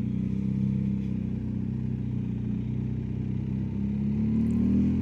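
BMW R1250GS Adventure's boxer-twin engine running steadily on the move, its pitch rising a little about four seconds in as it picks up speed.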